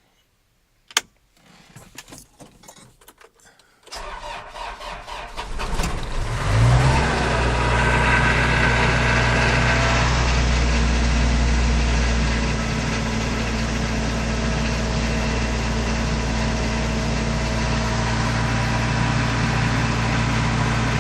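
Kawasaki Mule utility vehicle cold start: a sharp click about a second in, then the starter cranks for about two seconds before the engine catches, revs briefly and settles into a steady idle that drops a little a few seconds later.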